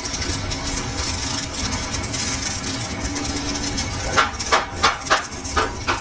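A hammer striking metal, about six quick blows near the end, over a steady hum of workshop machinery.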